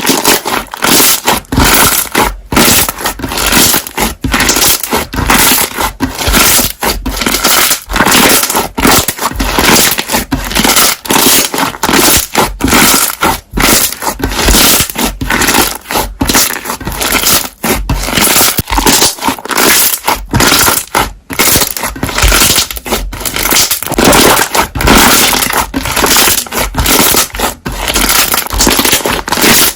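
Slime being squeezed and pressed so its trapped air bubbles pop, a dense, continuous run of crackling pops.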